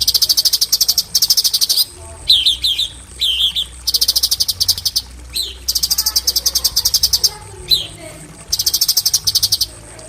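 A cucak cungkok singing its rapid-fire "tembakan" song: five high, fast, evenly pulsed trills of about a second each, with short down-slurred notes between them.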